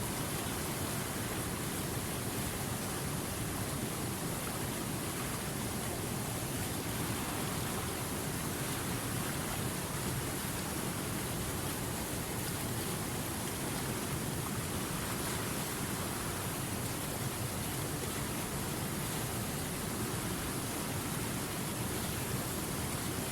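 River water rushing steadily over rocks, a constant even hiss with no change.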